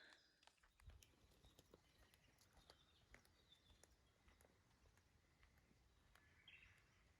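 Near silence: faint outdoor ambience with scattered soft ticks and a few faint bird chirps.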